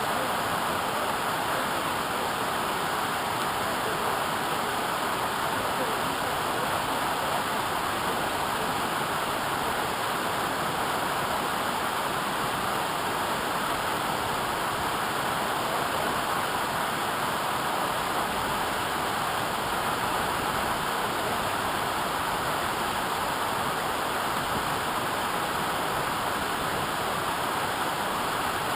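Waterfall: a steady rush of falling water with no break.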